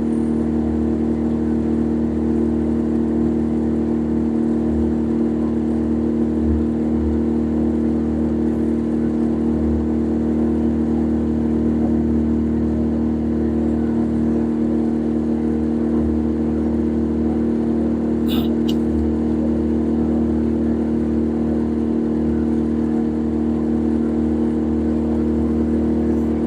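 An engine running at a steady speed: a constant drone with several level humming tones. There is a brief click about eighteen seconds in.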